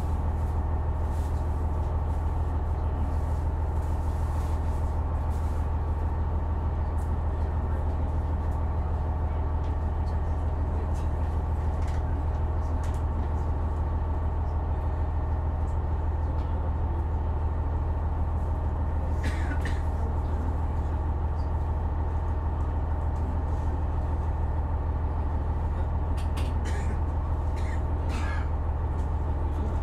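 Diesel engine of a KiHa 126 series railcar idling steadily while the train stands still, heard from inside the car. A few brief higher-pitched sounds come through about two-thirds of the way in and again near the end.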